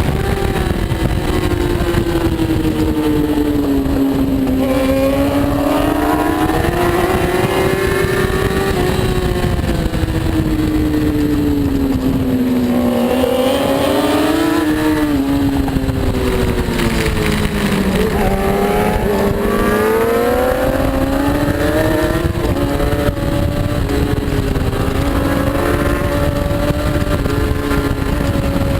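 Racing superbike engine under load, its pitch rising and falling several times as the bike speeds up and slows, over a steady rush of noise.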